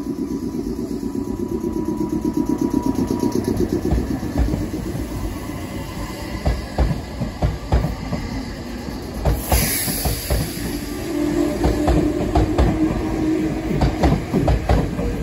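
Meitetsu red electric train moving along a station platform: a low rumble, then its wheels clicking repeatedly over rail joints, with a short hiss of air about nine seconds in.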